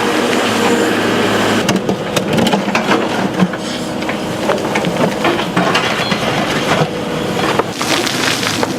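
Excavator engine running while stone and concrete crunch, scrape and knock irregularly under the machine's work.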